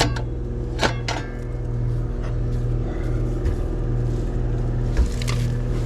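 Rheem heat pump outdoor unit running just after start-up, a steady low mechanical hum from the compressor and condenser fan motor, with the fan now working. A few sharp clicks sound about a second in and near the end.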